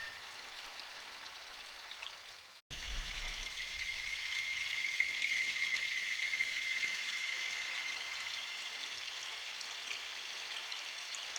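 Steady rain falling in a forest, an even hiss of drops. It cuts out for an instant about two and a half seconds in, then carries on a little louder.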